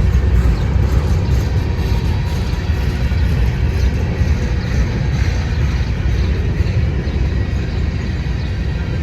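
Freight train rolling past: a steady, loud low rumble of wheels on rail.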